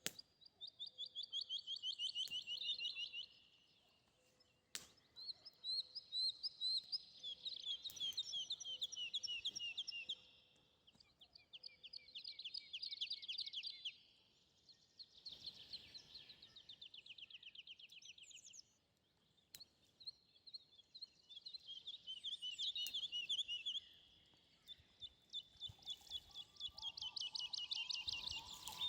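A songbird singing: phrases of rapid trilled notes, each two to three seconds long, repeated after short pauses.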